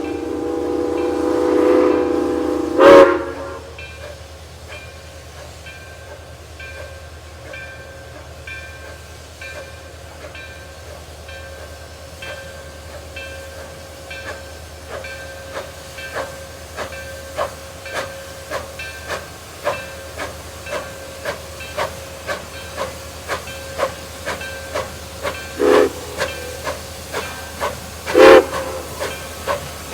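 Steam locomotive 4960's chime whistle sounds a long blast that ends about three seconds in. Then the engine stands hissing steam while its bell rings steadily, about one and a half strokes a second, with short whistle blasts near the end.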